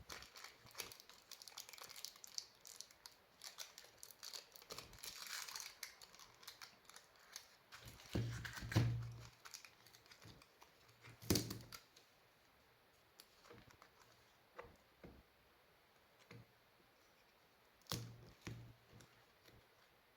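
Workbench handling of an electric scooter's lithium-ion battery pack: crinkling and rustling with scattered clicks and knocks, and a few heavier thumps. It turns quieter in the second half, leaving only occasional ticks.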